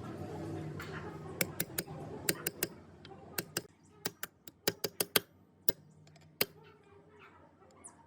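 Irregular sharp metallic clicks and taps of small metal parts and tools being handled during gearbox work, about fifteen in all. A low steady hum sits under them and drops away about three and a half seconds in.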